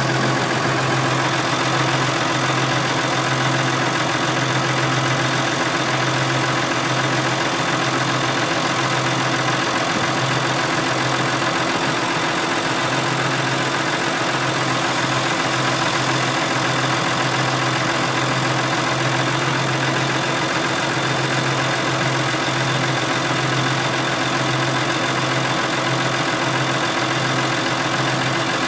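Massey Ferguson 6290 tractor's diesel engine running steadily at constant revs, its pitch and loudness unchanging.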